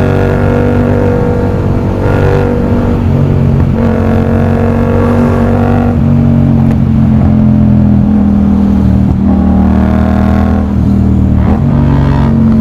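Yamaha MT-07's CP2 parallel-twin engine running under way through an aftermarket full exhaust with an SC Project end can, heard from the rider's seat. The engine note holds and rises, with several brief dips and steps in pitch as the throttle is eased and rolled on.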